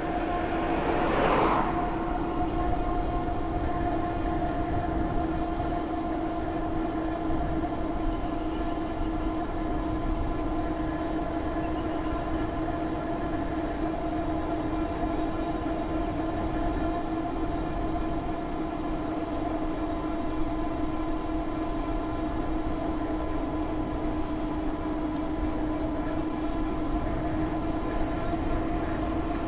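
Electric drive motor whining steadily at cruising speed, holding one pitch throughout, over low road and wind rumble. A brief whoosh of noise comes about a second in.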